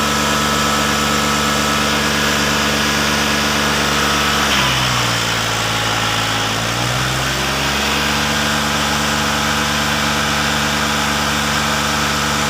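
New Holland 3630 tractor's diesel engine running steadily. About a third of the way in, its revs drop, stay down for a couple of seconds, then climb back to the earlier speed.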